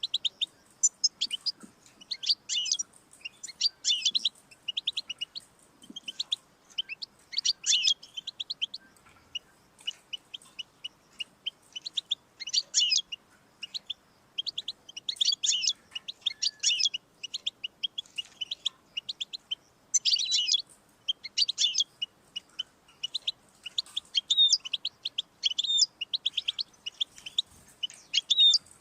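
European goldfinch singing: quick, high twittering phrases of about a second each, repeated with short pauses between them.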